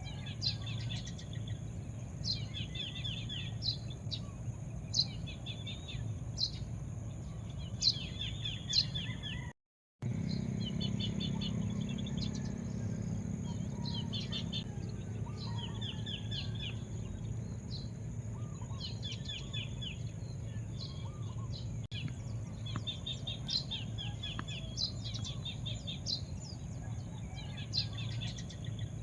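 Songbirds chirping, with one bird repeating a short high call every second or two: a sharp note followed by a quick trill. A steady low rumble of outdoor background noise runs underneath. The sound cuts out completely for a moment about ten seconds in.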